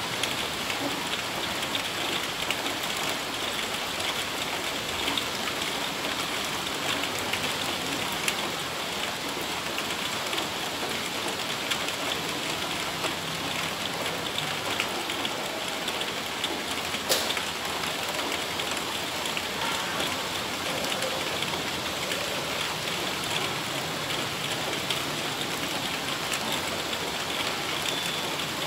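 Heavy rain falling steadily, pattering on corrugated metal roofing. One sharp click stands out about halfway through.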